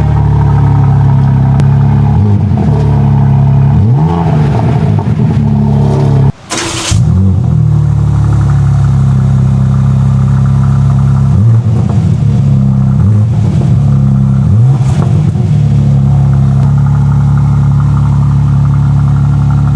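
BMW M4's twin-turbo straight-six exhaust idling, blipped with about six short revs that rise and fall back, with a brief break about six seconds in, then settling into a steady idle for the last few seconds.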